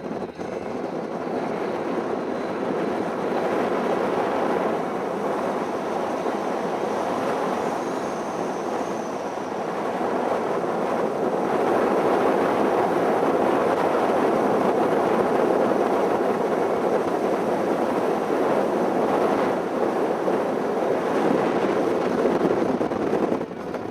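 Motorcycle on the move at road speed: a steady rush of wind and road noise over the riding microphone, with the bike's running underneath, growing somewhat louder about eleven seconds in.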